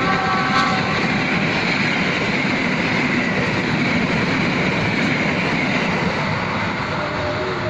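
Passenger train running past, a steady loud rush and rumble of wheels on rails. The last of a horn blast trails off right at the start.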